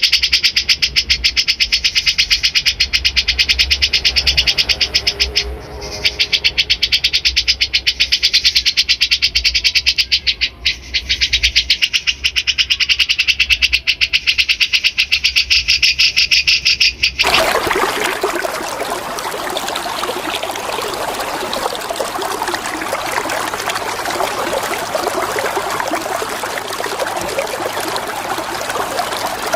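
Recorded bulbul song: a fast, high, rattling trill of rapidly repeated notes with two brief breaks. About 17 seconds in it cuts off abruptly and gives way to steady flowing water.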